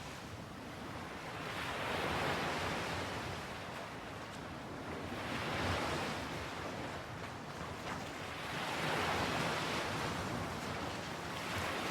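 Ocean surf washing onto a shore, a hiss of breaking waves that swells and fades about every three and a half seconds.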